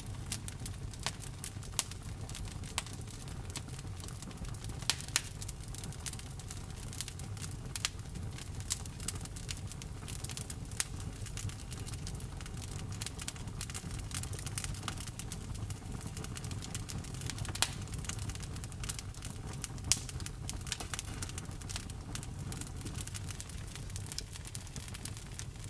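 Wood fire burning, with a steady low rumble and frequent irregular crackles and a few sharper pops from the burning wood.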